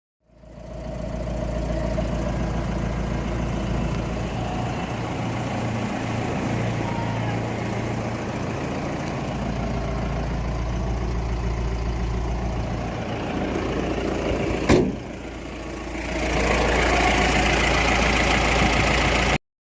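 Mahindra Bolero Pik-Up's diesel engine idling steadily. A single sharp knock comes about fifteen seconds in. After a short quieter moment, the sound is louder and brighter until it cuts off abruptly.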